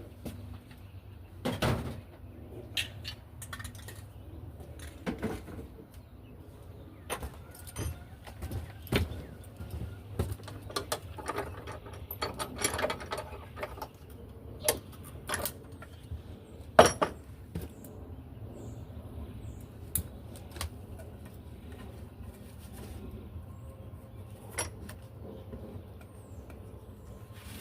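Irregular clicks, knocks and clatter of tools and small objects being handled at a workbench, the loudest knock about two-thirds of the way through, over a low steady hum.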